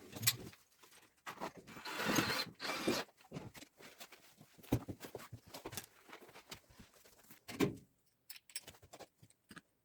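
Irregular rustling and scraping handling noises in several short bursts, with quieter gaps between them.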